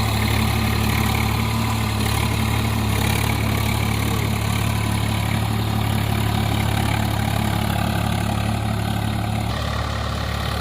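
Swaraj 744 FE tractor's three-cylinder diesel engine running at a steady speed, a low even hum, with a slight change in tone near the end.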